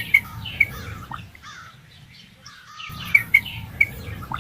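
Bird chirping: clusters of short, high chirps over a low rumbling background noise. The noise drops out for about a second midway, and a matching set of chirps comes again near the end.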